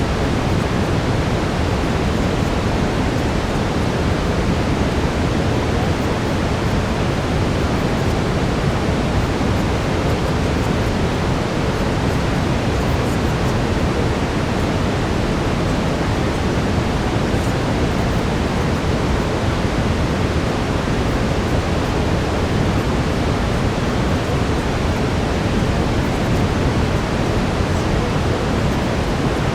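Brown noise: a steady, even rush, heavier in the lows, with no change throughout.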